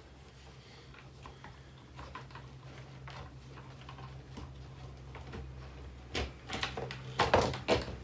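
Steady low hum of a battered table fan's electric motor, still running, with scattered clicks and knocks from its broken parts being handled, building to a cluster of loud knocks near the end.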